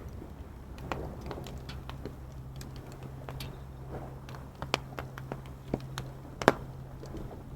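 Wood fire crackling with irregular sharp pops, the loudest about six and a half seconds in. A faint steady low hum sits underneath.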